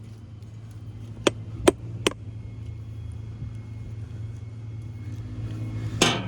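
Hammer striking a steel chisel against the soft lead connectors of a forklift battery: three quick metallic blows, then one more near the end. A steady low engine-like hum runs underneath and slowly grows louder.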